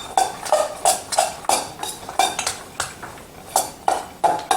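A utensil repeatedly knocking and scraping against a bowl as chickpeas and carrots are tossed with oil and spice, about two or three knocks a second, some ringing briefly.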